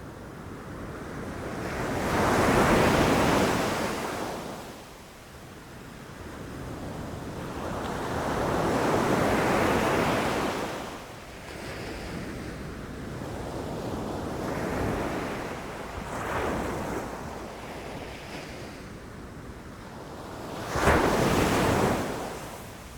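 Ocean waves breaking and rushing up the shore in slow surges, each one building, peaking and fading over a few seconds; the last, near the end, is the sharpest and loudest crash.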